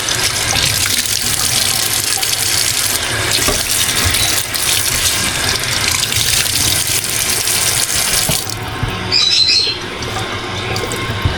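Water running from a tap into a sink, shutting off about eight and a half seconds in; a brief high squeak follows.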